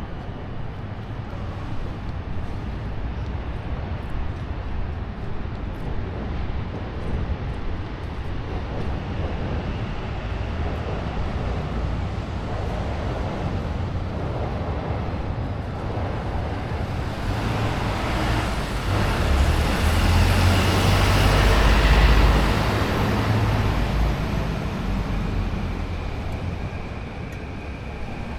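Urban traffic noise, with a heavy vehicle passing close by: a low rumble swells over several seconds, peaks about two-thirds of the way in, then dies away.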